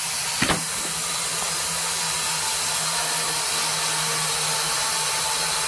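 Tru-Cut band sawmill running with a steady hiss over a low hum, and one sharp click about half a second in.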